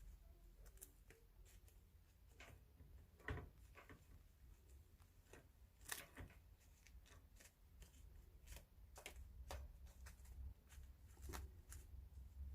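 Faint, scattered light taps and clicks as kittens bat and carry a dried capelin around on the floor, with a sharper tap about three and six seconds in.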